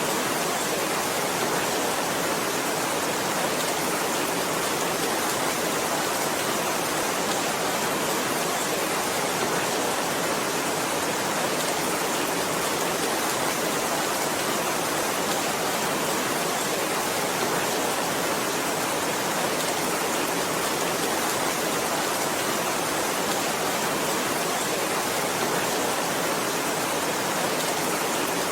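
Heavy rain falling in a steady, even downpour, a dense hiss with no single drops or thunder standing out.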